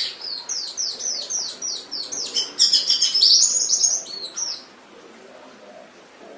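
Domestic canary singing: a run of quick, high, repeated falling notes, about five a second, then a louder rapid trill that stops about four and a half seconds in.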